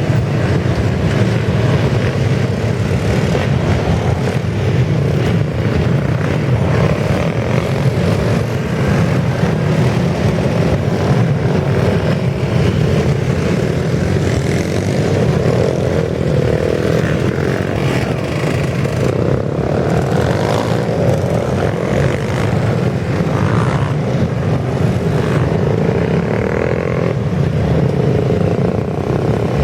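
Motorcycle engines running in a loud, steady, continuous drone.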